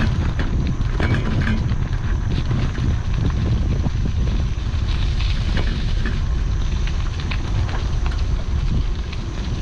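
Wind buffeting an action camera's microphone during a bike ride: a steady low rumble, with scattered light clicks and rattles from the bike on the road.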